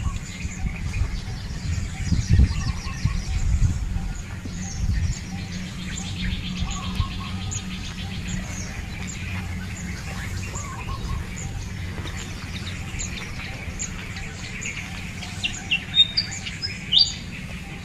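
Wild birds chirping: a thin high chirp repeated over and over, with a few louder, sharper chirps near the end. A few low thumps in the first few seconds.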